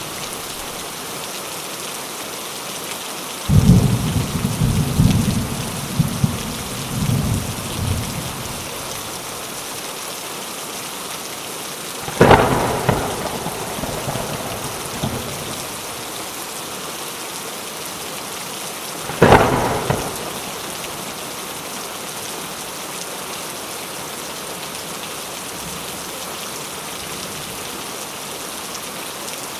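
Steady rain with thunder: a low rolling rumble about three to eight seconds in, then two sharp thunderclaps about seven seconds apart, each dying away over a couple of seconds.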